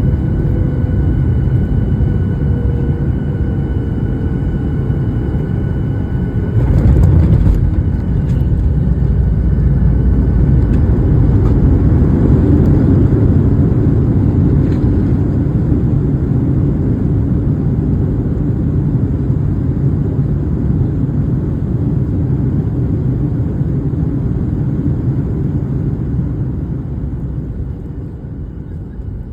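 Jet airliner cabin noise: a steady rumble of engines and airflow with a faint whine. About seven seconds in it turns suddenly louder with a few knocks as the wheels touch down, then the landing rollout slowly quietens, dropping further near the end.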